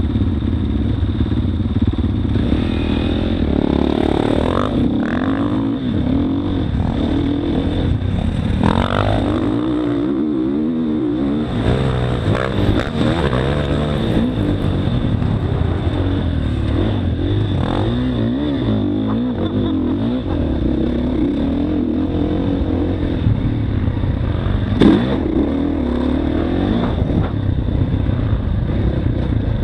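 Motocross dirt bike engine running hard, its pitch climbing and dropping again and again as the throttle opens and closes, with clatter from the bike; a single sharp knock stands out near the end.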